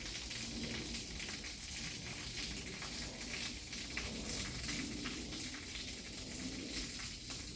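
Waterfall pouring steadily, a constant hiss of splashing water with a low rumble beneath.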